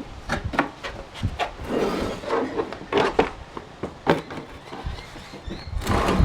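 Irregular knocks, clicks and rubbing as parts of a Ryobi wood chipper shredder are handled and fitted by hand.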